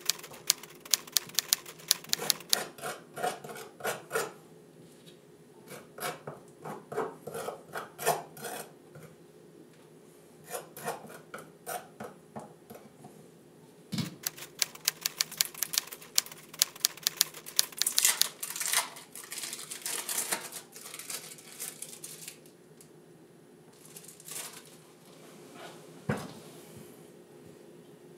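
Knife spreading margarine onto slices of white bread, a run of quick scratchy scraping strokes that come in bursts. Two dull knocks, one about halfway through and one near the end.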